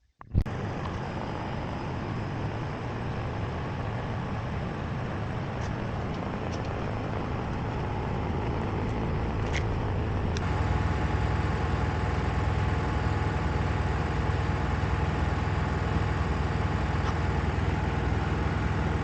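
Miele WKG 130 washing machine in its spin cycle, running with a steady heavy rumble that gets louder about ten seconds in as the drum speeds up. The strong vibration and knocking from inside are typical of worn drum shock absorbers.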